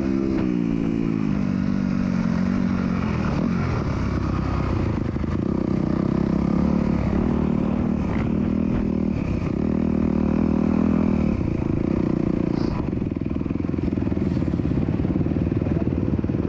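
Motocross bike engine heard onboard, running at low to moderate revs with the throttle opening and closing, then settling to a lower, steadier speed for the last few seconds.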